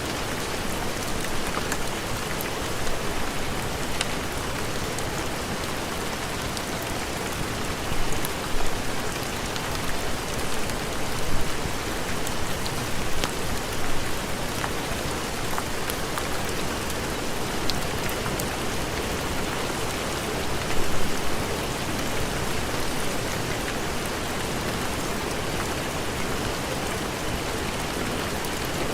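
Steady heavy rain, with scattered sharp ticks through it and a few short louder swells, mostly from about a quarter to halfway in and once more about two-thirds in.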